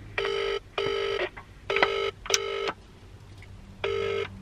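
Telephone ringback tone heard through a phone's loudspeaker while an outgoing call rings. It is the Australian double ring: three 'brr-brr' pairs of short tones, about two seconds apart.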